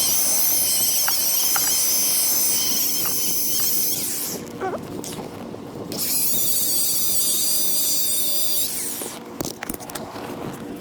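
DeWalt electric buffer running with a high-pitched whine as the pad works compound on a boat hull. It stops about four seconds in, starts again about two seconds later and runs until near the end, followed by a few clicks.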